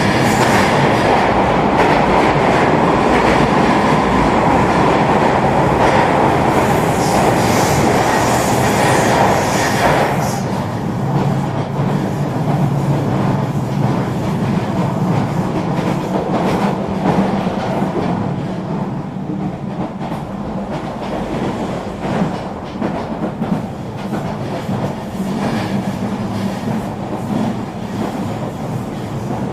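Eurobahn regional train running along the track: rolling noise with a steady low hum. The noise is loudest and harshest for the first ten seconds, then eases to a quieter, even rumble.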